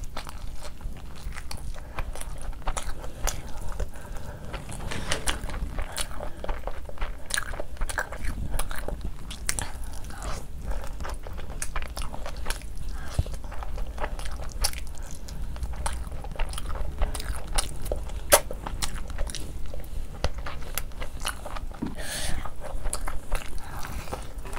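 Close-miked eating: biting meat off the bone and chewing with the mouth open, a steady run of many short wet smacks and clicks of lips, tongue and sauce-covered fingers.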